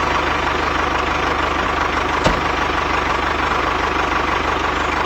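A small engine running steadily with a fast, even firing rhythm, with one short click a little over two seconds in.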